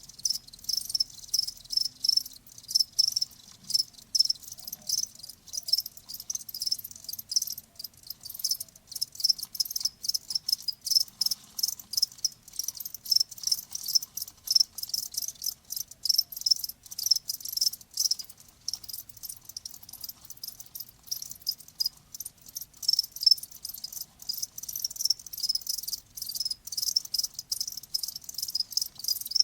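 Crickets chirping continuously, many short rapid pulses of a high tone, several insects overlapping.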